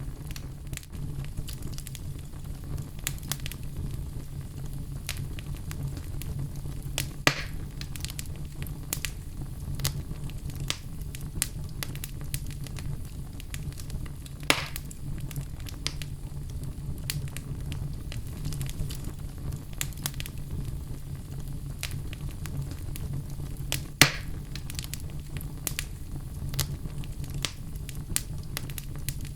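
Fire burning in a fireplace, crackling with scattered small snaps over a steady low rumble. Three louder pops stand out, about 7, 14 and 24 seconds in.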